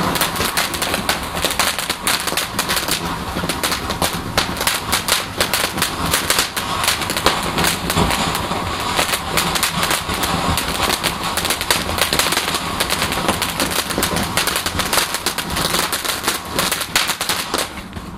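Garden firework crackling: a dense, rapid run of small bangs and crackles that keeps up for about eighteen seconds, then stops abruptly.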